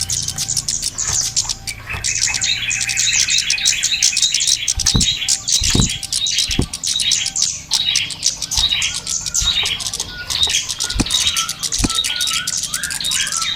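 Dense, rapid high chirping and twittering of small birds: a lure recording of kemade (cici geni) calls used to draw the birds in. A few short low knocks sound now and then.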